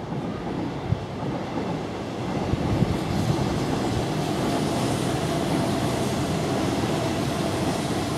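Hanshin electric train running on the elevated viaduct. The rumble grows louder about three seconds in and then holds steady.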